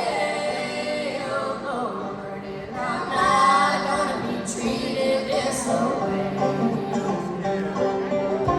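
Live band playing with a singer's voice, most likely a woman's, over guitars and other string instruments.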